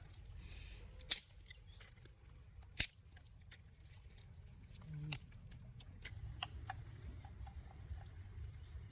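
Three sharp clicks about a second and a half to two seconds apart over a low rumble, with fainter ticks in the second half.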